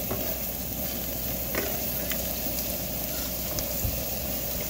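Food frying in a pan: a steady sizzle, with a couple of light clicks about a second and a half apart.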